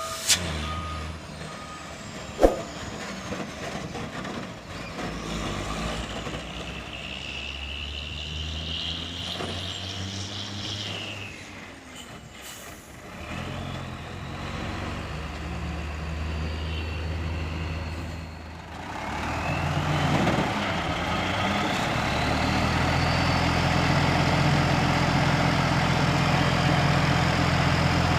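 Hino dump truck's diesel engine running, with a high whine coming and going in the first half. About two-thirds of the way through, the engine revs up with a rising whine and stays louder and steady after that.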